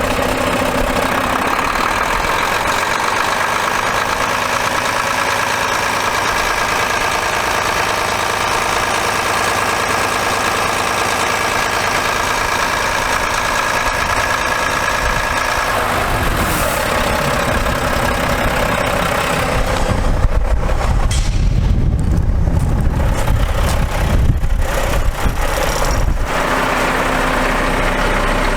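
Mack MP7-395 inline-six diesel engine of a heavy water truck running steadily at idle. Partway through, the sound changes to a heavier, uneven low rumble for several seconds, then settles back to a steady idle.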